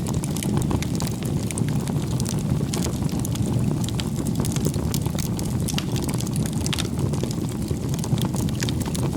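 Wood campfire burning, a steady low roar of flames with frequent sharp crackles and pops from the burning firewood.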